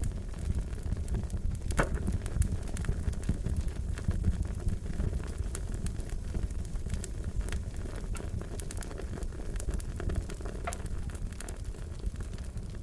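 Wood fire crackling steadily, with a low rumble under frequent sharp pops and snaps.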